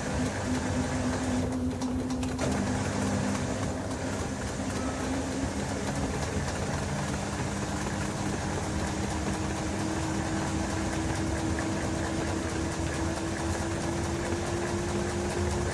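LG TurboDrum WT-R852 top-load washing machine running: a steady mechanical hum with a motor whine that steps down in pitch about two and a half seconds in, then from about six seconds rises slowly and evenly in pitch as the drum speeds up.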